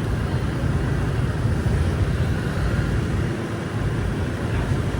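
Street ambience dominated by a steady low rumble of vehicle traffic.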